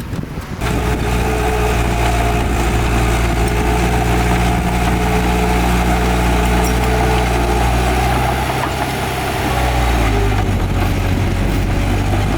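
Heavy diesel engine of an earthmoving machine running steadily. It eases off briefly about nine seconds in, then runs on at a slightly different pitch.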